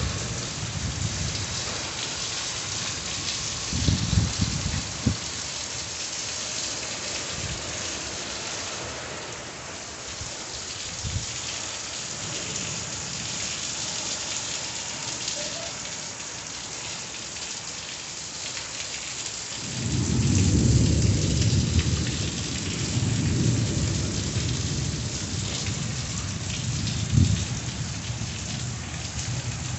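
Steady rain falling, with thunder rumbling: a short roll about four seconds in and a longer, louder one starting about two-thirds of the way through.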